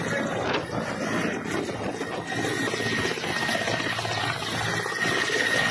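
Helicopter running, its rotor chopping rapidly over a dense rush of noise, with a steady high whine.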